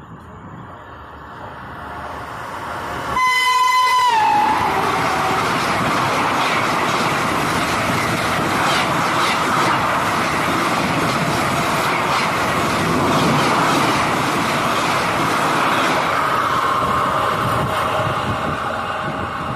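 Indian Railways express train approaching at speed. About three seconds in, its locomotive sounds one horn blast of about a second, which falls in pitch as it passes. The LHB coaches then rush by with a steady loud rolling noise and a rapid clatter of wheels over the rail joints.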